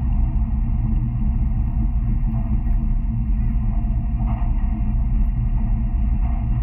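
Steady low rumble of an N700 Series Shinkansen running at speed, heard from inside the passenger cabin. Faint voice-like sounds rise briefly about four seconds in.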